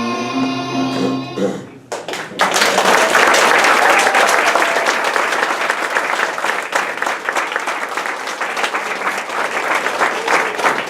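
A children's song with accompaniment ends about two seconds in, followed by sustained audience applause.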